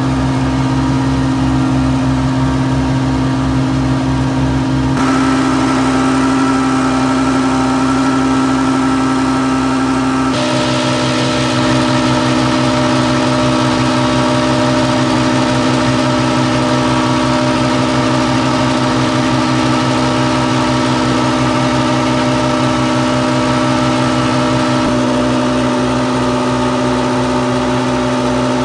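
Massey Ferguson 399 tractor's six-cylinder Perkins diesel running steadily under way on the road, its note stepping up about five seconds in and again about ten seconds in, then holding steady.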